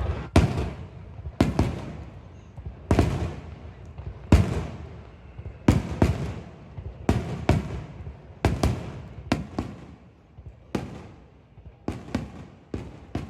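Aerial firework shells bursting overhead: a series of sharp booms, each trailing off in a rolling echo. They come about every one and a half seconds at first and bunch closer together, sometimes in pairs, in the second half.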